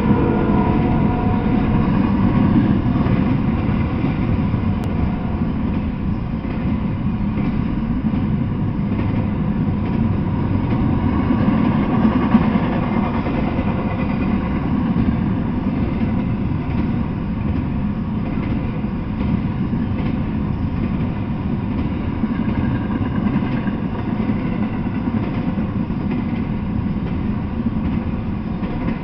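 Double-stack intermodal freight train rolling past, with a steady, unbroken rumble of its wheels on the rails.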